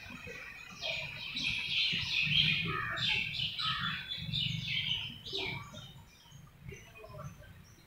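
Small birds chirping, a busy run of quick calls for the first few seconds that thins out toward the end.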